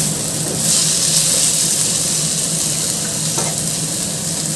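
Chopped onions and tomatoes sizzling steadily in hot oil in a non-stick pan, stirred with a wooden spoon.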